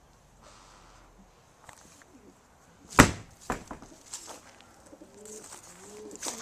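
Racing pigeons cooing in a loft, in low rolling calls mostly in the second half. A sharp knock comes about three seconds in, followed by a few lighter clicks.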